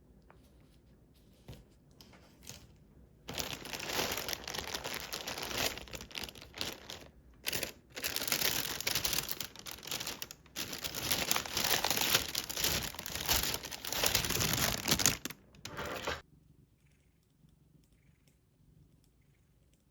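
Crinkling and rustling, as of material being crumpled or handled, in several bouts with short breaks, starting about three seconds in and stopping abruptly about sixteen seconds in.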